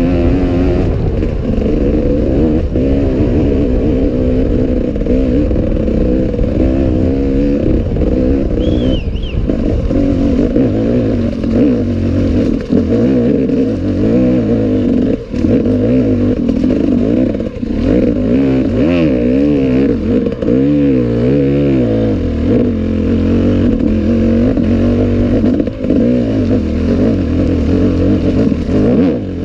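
Enduro dirt-bike engine running hard, its pitch rising and falling constantly with the throttle, mixed with clatter from the bike.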